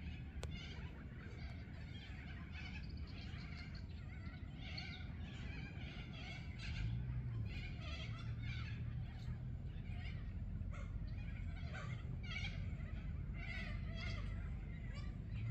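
Wetland birds calling over and over in short, overlapping calls. A low rumble runs underneath and gets louder about halfway through.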